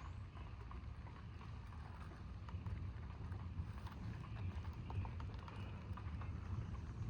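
Stormy outdoor ambience: a low continuous rumble, typical of distant thunder, that swells slightly toward the end, with faint scattered ticks and a few short, high bird chirps.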